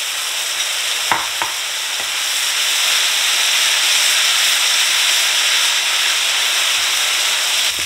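Noodle-and-vegetable stir-fry sizzling hard in a skillet over high heat as a wooden spoon stirs it, the freshly added sauce cooking off. There are a couple of light spoon knocks about a second in, and the sizzle grows louder after about two seconds.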